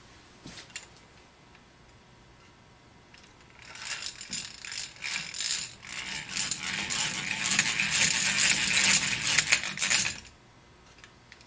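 A drill boring a hole into a wooden bracket, a rough, grinding and rattling noise that starts about three and a half seconds in, grows louder, and stops suddenly about ten seconds in.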